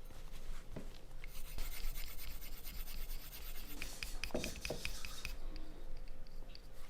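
Rubbing and rasping on a ceramic ocarina's clay body, as its surface is worked by hand, with two light knocks a little after four seconds in.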